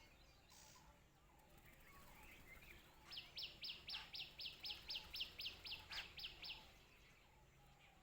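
A small bird calling a rapid series of about fifteen sharp, high, falling notes, roughly four a second, starting about three seconds in and lasting about three and a half seconds, over faint outdoor background.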